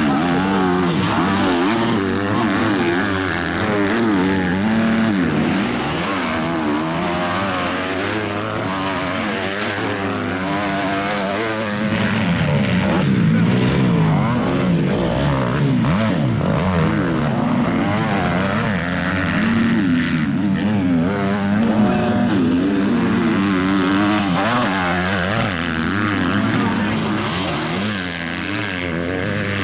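Several motocross bikes racing, their engines revving up and down over and over through gear changes and corners, the pitches of different bikes overlapping.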